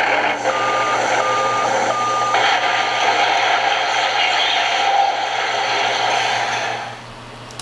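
Recorded dump truck sound playing from a press-and-listen sound book's small speaker. An engine runs steadily with four reversing beeps in the first three seconds, then the clip cuts off about seven seconds in.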